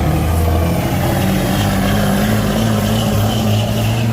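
Semi truck's Caterpillar diesel engine running hard under load as it pulls the sled: a loud, steady, deep drone whose note shifts about a second in.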